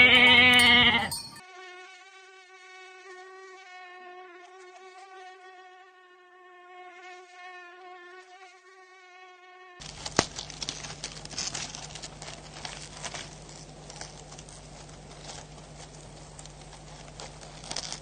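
A goat bleats loudly once at the start. Then comes a steady, slightly wavering insect-like buzz for about eight seconds. About ten seconds in it gives way to an even wash of surf on rocks with scattered clicks and a low hum.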